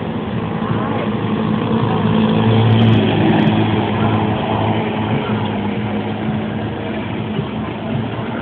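A motor running steadily with a low hum, getting louder about two seconds in and easing off again after about four seconds.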